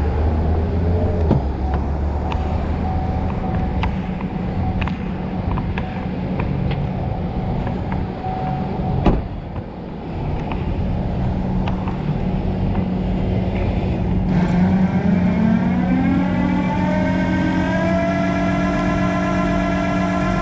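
A motor vehicle running with steady road and engine noise; about fourteen seconds in, the engine's pitch rises as it accelerates, then holds steady.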